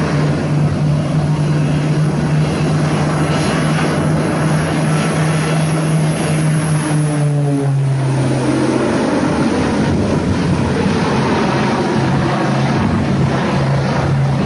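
Aircraft engine running, a loud, steady drone with a strong low hum whose pitch steps down slightly about halfway through.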